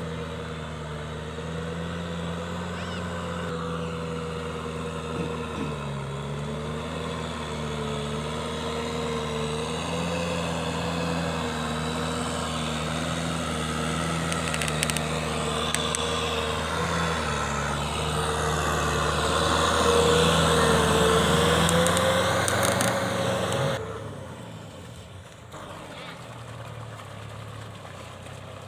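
Kubota M6040SU tractor's diesel engine running steadily under load while ploughing, its pitch wavering slightly. It grows louder, then drops off sharply near the end.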